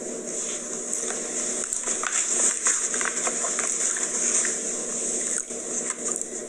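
A person chewing a cookie with wet mouth clicks and smacks, over a steady hum and hiss.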